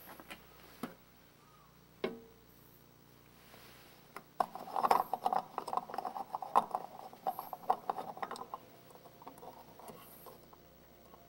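A few sharp clicks, one with a brief ringing tone, then about four seconds of rapid, light clinking and clattering of small hard objects, which then tails off.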